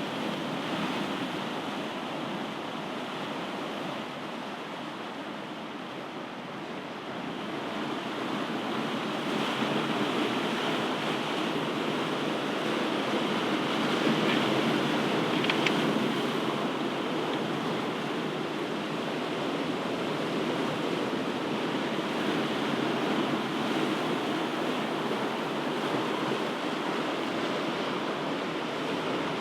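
Ocean waves breaking and washing on a shore: a continuous rushing surf that swells louder about a third of the way in, peaks around the middle, then holds steady.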